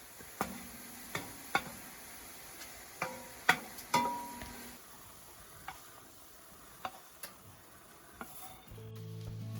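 A spoon clinking and tapping against a pot or pan while food is stirred in camp cooking: about nine light, separate knocks spread over several seconds, a few of them ringing briefly.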